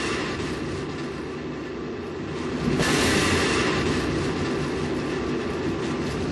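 Rocket engines roaring during a launch, a dense crackling rumble that surges louder about three seconds in.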